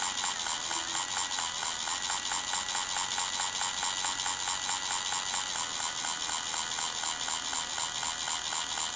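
Motorized Trackmaster Thomas toy engine running on plastic track: a steady high motor whir with rapid, even clicking from its gears and wheels.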